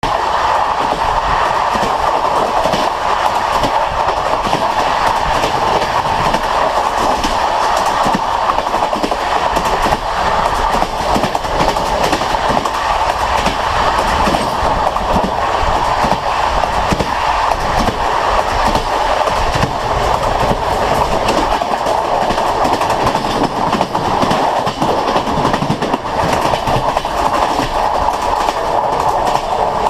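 Train wheels running at speed over jointed track and through points, a continuous loud rumble with irregular clickety-clack knocks as the wheels strike the rail joints.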